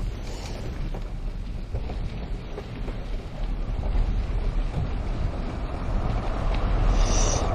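Wind buffeting the microphone while riding a bicycle, a steady low rumble, with a brief hiss near the end.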